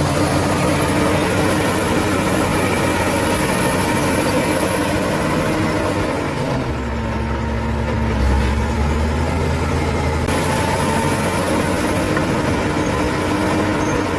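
Heavy bulldozer's diesel engine running steadily. Between about six and ten seconds in, its note turns deeper and heavier, then returns to the earlier sound.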